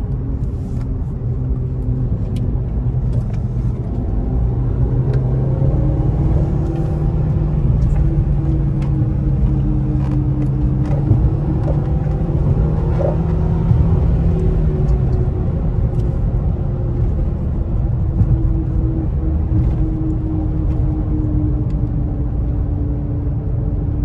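Infiniti Q50's twin-turbo V6 engine pulling a car along the road over a steady low rumble, its note climbing gradually in pitch for about ten seconds, then easing back down about halfway through and holding steady.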